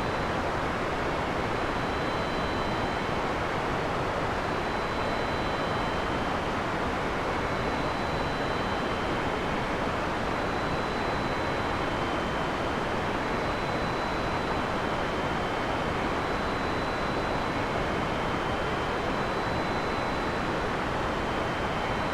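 Heavy rain in a forest, a steady even hiss with no thunder. Faint thin high tones come and go about every two seconds.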